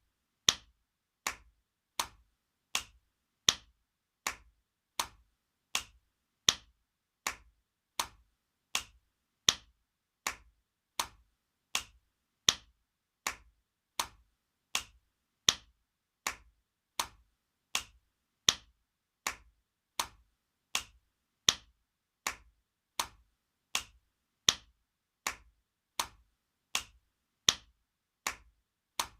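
Spanking sound effect: a hand slapping skin, over and over in an even rhythm of sharp smacks a little faster than one a second, with every fourth or so slap louder.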